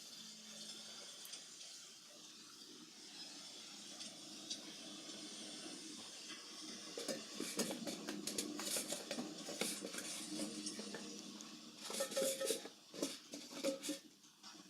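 Chip bag crinkling and crackling in irregular bursts as a cat tears at it, busy from about halfway through and loudest near the end.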